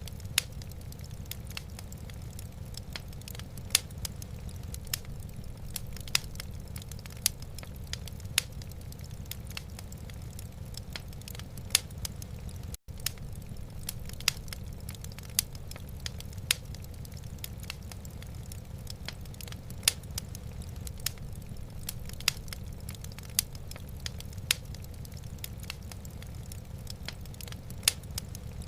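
Wood fire crackling in a fireplace: scattered sharp pops and snaps over a steady low rumble, with a momentary dropout about thirteen seconds in.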